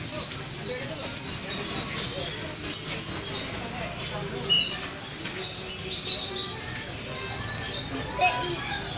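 Cricket chirping in a fast, even rhythm of about five to six high-pitched chirps a second.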